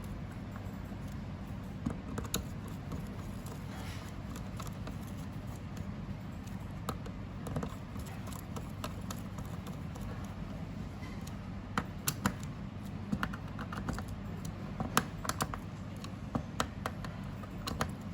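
Small screws being driven by hand into a fusion splicer's core frame board: light, irregular clicks and ticks of the screwdriver against the screws and metal parts, sparse at first and more frequent in the second half, over a steady low hum.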